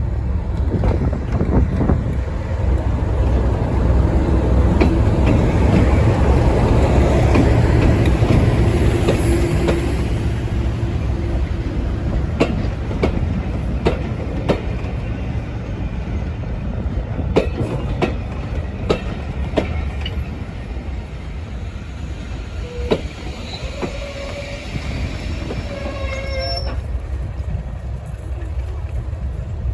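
A full-size train on a heritage railway passing by. A heavy rumble builds and then eases off, followed by a run of sharp wheel clicks over the rail joints, with a few short pitched tones near the end.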